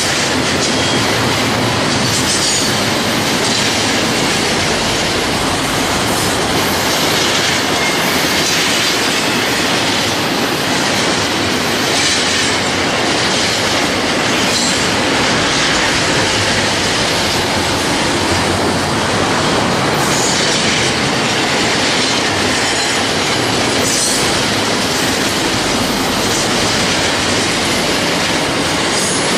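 Freight cars of a long freight train rolling past, their steel wheels clattering steadily on the rails, with brief high-pitched wheel squeals every few seconds.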